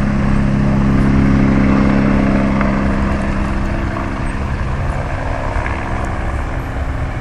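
Life Flight medical helicopter running: a steady engine hum over a pulsing low rumble, slowly fading.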